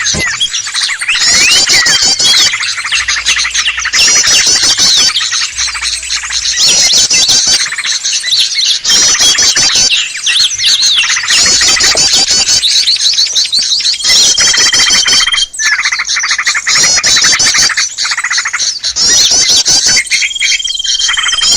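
Loud, dense chattering and scolding of many small songbirds, a bird-lure recording played to draw in small birds, in rapid repeated bursts. A steady high whistle is held briefly twice in the second half.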